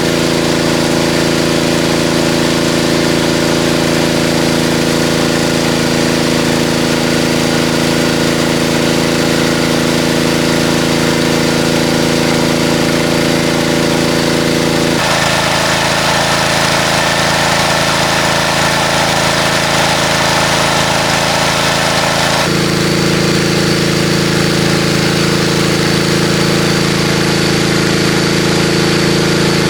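A motor running steadily at a constant pitch, its tone changing abruptly about halfway through and again near three quarters of the way.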